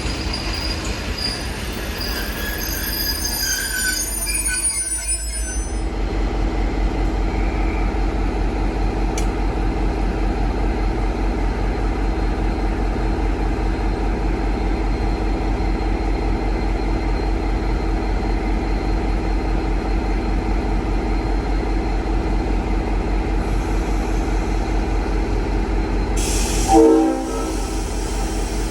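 Train at a station platform: wheels squealing in the first few seconds, then a steady rumble with a low hum, and a brief horn blast near the end.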